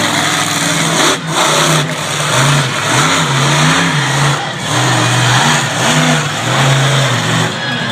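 Monster truck engine revving hard and easing off again and again, its pitch swinging up and down several times, over a steady loud hiss.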